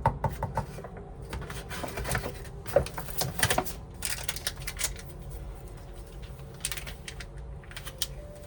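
A run of irregular light clicks and taps, thickest in the first few seconds and sparser later, over a low steady hum.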